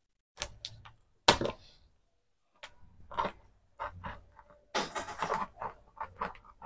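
A cardboard package being handled and opened by hand: scattered knocks and taps, one sharp knock about a second in, and a short rasping stretch of scraping or tearing near the five-second mark.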